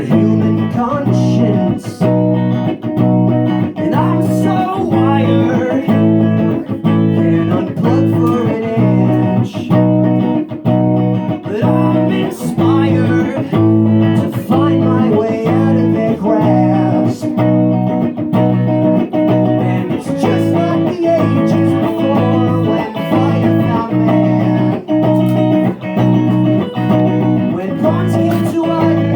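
Electric guitar played live through a loop station: a picked figure repeating over and over on top of sustained low notes.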